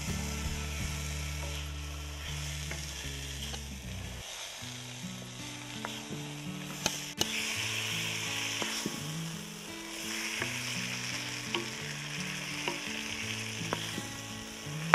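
A coiled eel sizzling steadily as it fries in hot oil in an iron kadai, stirred with a wooden spoon. A few sharp taps of the spoon against the pan come through, the loudest about seven seconds in.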